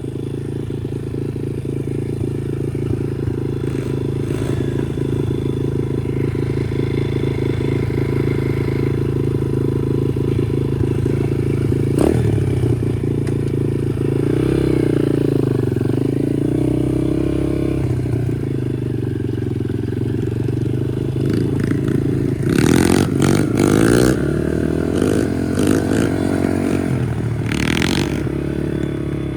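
Chinese pit bike's small single-cylinder engine running steadily, revved up and down twice: first about halfway through, then more strongly near the end, with rattling noise during the later revs. There is a sharp click a little before halfway.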